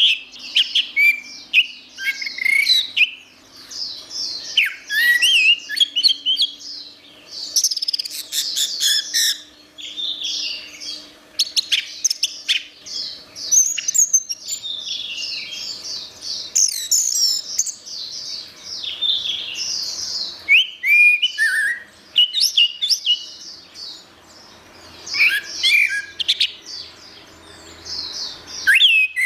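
Orange-headed thrush (anis merah) singing a long, varied song of quick high whistled phrases and chattering notes, with short pauses between bursts.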